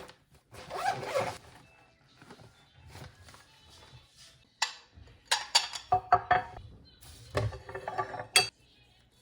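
Kitchenware clinking and knocking: a run of sharp, irregular clinks and knocks in the second half, after a brief scraping clatter near the start.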